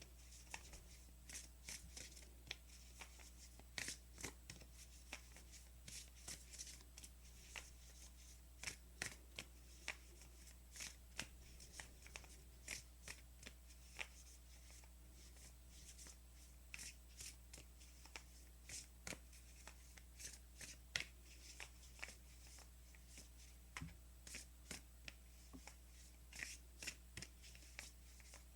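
A deck of thick-cardstock oracle cards being shuffled by hand: a long run of soft, irregular clicks and flicks of card against card, over a faint steady low hum.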